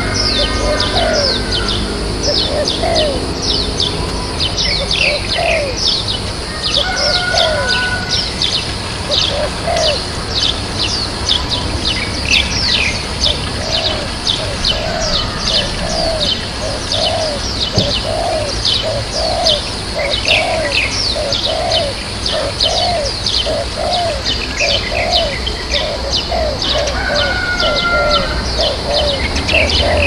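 Small birds chirping busily: quick high chirps that fall in pitch, with a lower call repeated about twice a second from about halfway through, over a steady low rumble.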